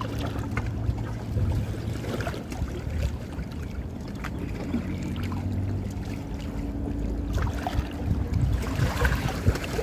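Wind on the microphone and water moving against a small boat, under a low steady hum.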